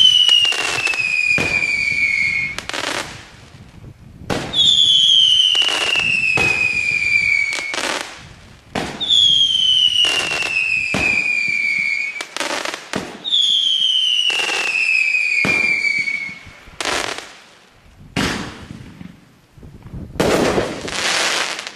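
Freedom Day Cannon consumer firework going off. Four long whistles, each falling in pitch over about three seconds with sharp cracks among them, are followed by a few separate bangs and a noisier burst of about a second and a half near the end.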